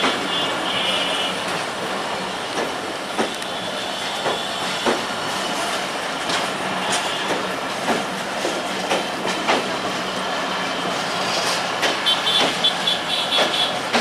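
Passenger coaches of a diesel intercity express train rolling past at close range: a steady rumble of steel wheels on the track with repeated sharp clicks as the wheels cross rail joints. The clicks come thicker near the end.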